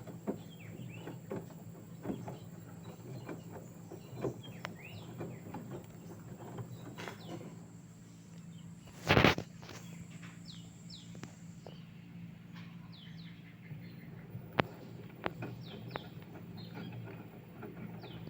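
Birds chirping in short, pitch-bending calls, with scattered sharp clicks and one brief loud noise about nine seconds in.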